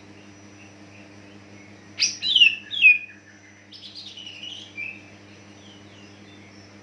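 Greater green leafbird (cucak ijo) singing: a loud burst of sweeping, falling whistled notes about two seconds in, then a softer, busier phrase a second later.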